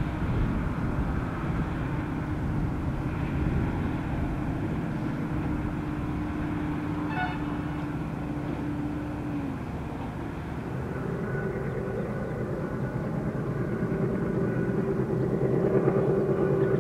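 A vehicle engine running steadily, with a hum whose pitch drifts slowly, a brief high pitched sound about seven seconds in, and a build in loudness near the end.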